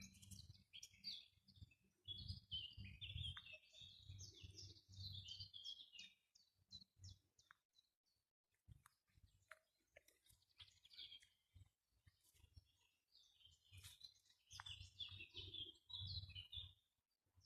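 Faint songbird singing in the forest: quick high chirps and short trills, a run of phrases in the first six seconds and another from about fourteen seconds in, with a faint low rumble beneath.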